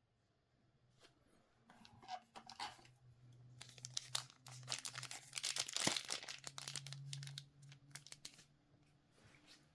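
Trading card pack wrapper being torn open and crinkled by hand: a run of dense crackling, busiest in the middle.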